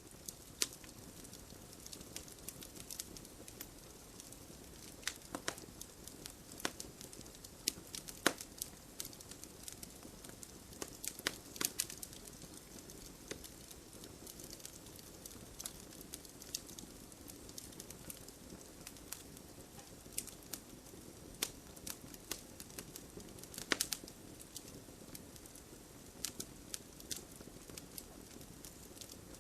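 Wood campfire burning: a steady soft hiss under irregular sharp crackles and pops, a few of them louder.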